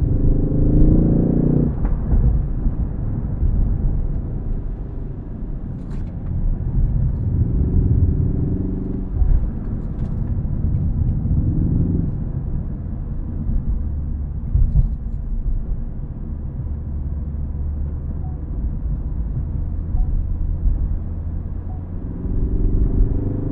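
Ford Focus ST engine pulling hard in its six-speed manual over steady road rumble. Its pitch climbs in several rising pulls, near the start, around a third and halfway in, and again near the end, each cut off sharply as the driver shifts or lifts off.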